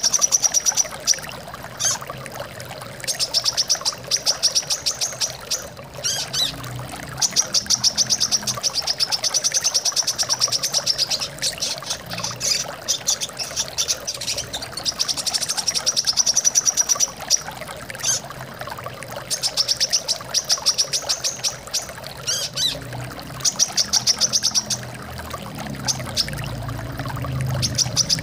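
Brown-throated sunbird singing rapid, high trills in repeated bursts of one to three seconds, over steady running water.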